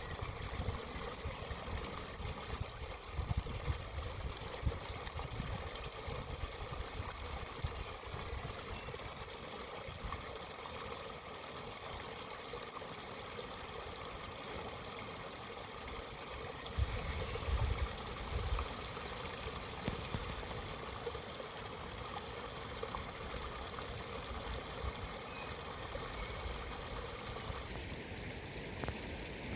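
A stream flowing and trickling steadily, with irregular bursts of low rumble. The sound's character changes abruptly twice, about 17 and 28 seconds in.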